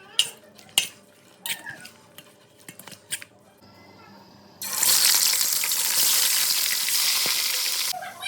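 A few sharp clicks and knocks, then a loud steady hiss that starts about four and a half seconds in and cuts off suddenly near the end.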